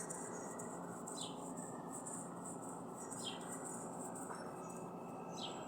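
A bird chirping three times, each a short falling note, over faint steady outdoor background noise.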